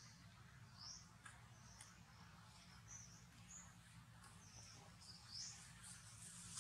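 Faint, short high chirps of small birds, about one a second, over a low steady hum.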